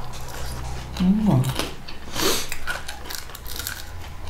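Close-up eating noises: chewing and mouth sounds of someone eating fried chicken, with a short hummed 'mm' about a second in.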